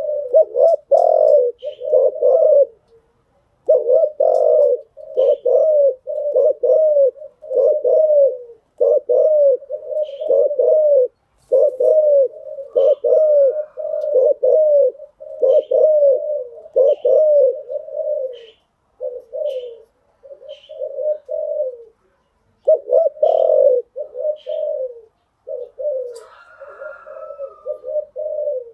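Spotted dove cooing over and over: a fast series of short, arching coos that pause briefly about three seconds in and again about twenty-two seconds in. Faint, high, short chirps come in now and then.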